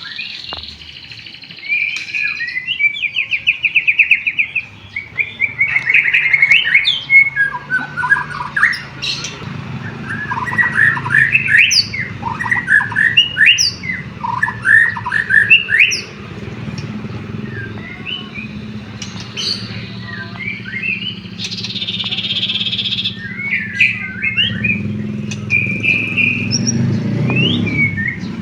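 White-rumped shama (murai batu) singing a loud, varied song of quick whistles, chirps and trills, with a fast trill about three seconds in. It is a 'gacor' fighter-style song that includes canary phrases the shama has learned.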